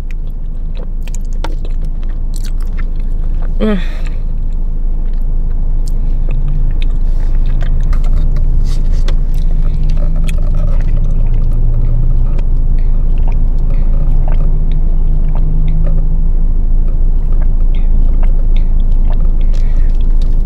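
Close-up chewing of noodles with small clicks of a plastic fork and a sip through a straw, over a loud, steady low rumble inside a car that builds over the first several seconds. A short hum breaks in at about four seconds.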